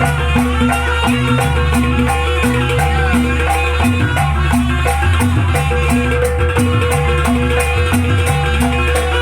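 Jaranan gamelan music playing: repeated ringing metallophone notes over a held tone, with a steady beat of sharp percussion hits.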